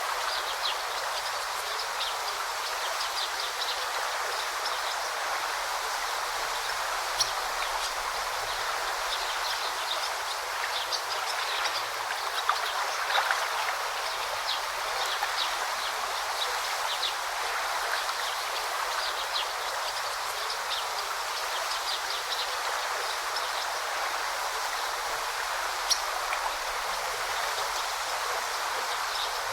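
Forest river flowing: a steady rushing and babbling of water, with many short, high chirps from small birds over it.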